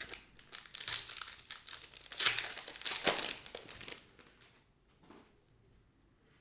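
Foil trading-card pack wrapper crinkling and tearing as it is pulled open, a dense crackle for about four seconds that then dies away.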